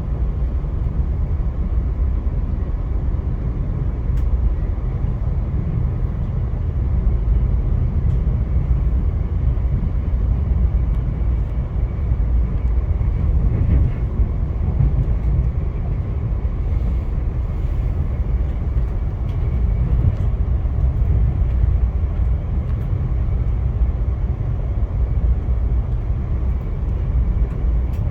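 Via Rail passenger train running along the track, a steady low rumble with faint occasional clicks.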